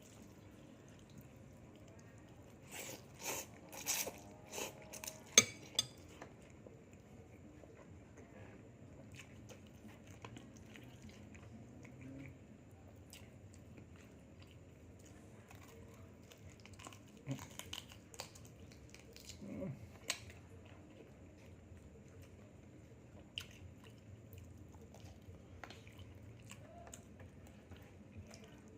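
A person eating: chewing and crunching food, with clinks of cutlery and dishes. A quick run of sharp clicks comes a few seconds in, and a few scattered ones later.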